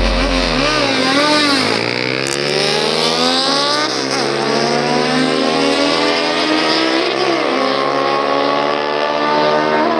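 Racing motorcycle engine accelerating hard at high revs, its pitch wavering at first, then climbing steadily with a few brief dips at gear changes.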